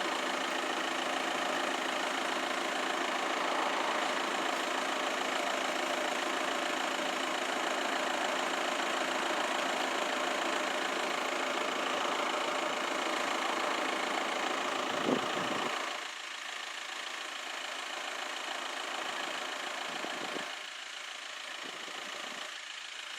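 A vehicle engine idling steadily. It cuts out about 16 seconds in, leaving a quieter background.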